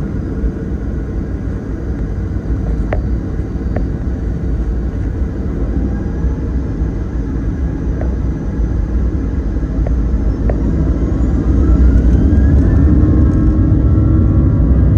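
Steady rumble of a Boeing 737-900's CFM56 jet engines heard from inside the cabin. It grows louder about eleven seconds in, with a faint rising whine, as the engines spool up. A few light clicks sound over it.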